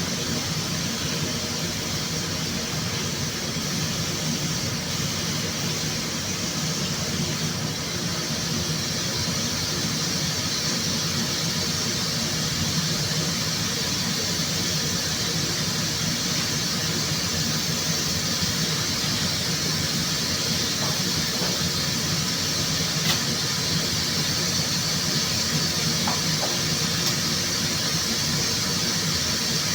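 Compressed-air paint spray gun hissing steadily as clear coat is sprayed on a car body, with a low steady hum underneath.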